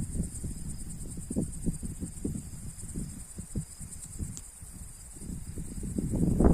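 Crickets chirring in a steady, fast, high-pitched trill, with scattered low rustling and soft knocks underneath.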